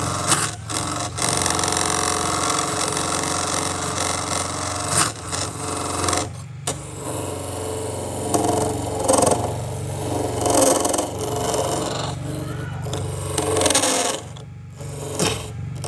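An electric power tool running on wood with a steady motor hum and rasping noise, cutting out briefly twice, about six seconds in and near the end.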